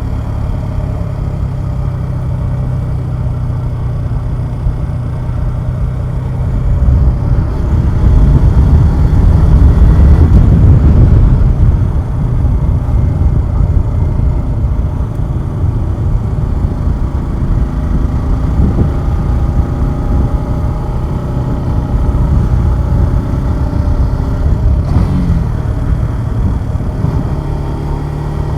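Suzuki Gixxer 150SF's single-cylinder engine running on a ride, its note steady at first. About a quarter of the way in it grows louder with wind rush for several seconds, then varies with the throttle and settles back to a steady note near the end.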